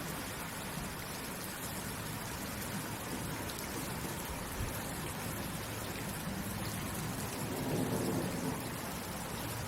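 Steady rain falling, an even hiss of drops. About eight seconds in, a low rumble swells briefly under the rain.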